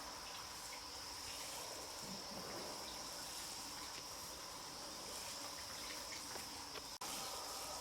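Steady high-pitched insect chorus, fairly quiet, with a few faint scattered taps and a brief dropout about seven seconds in.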